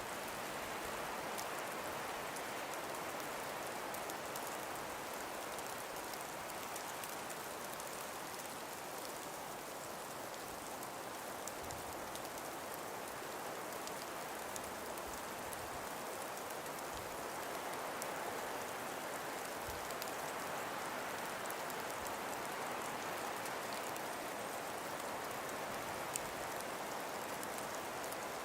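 Calm winter breeze blowing through frosted forest trees: a steady, even hiss that swells and eases slowly.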